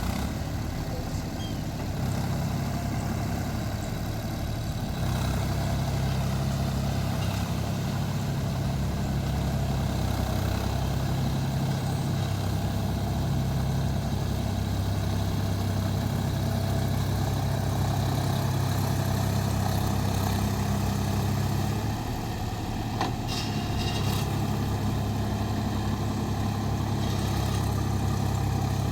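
Mahindra 275 DI TU tractor's three-cylinder diesel engine running steadily, getting a little louder in the first few seconds.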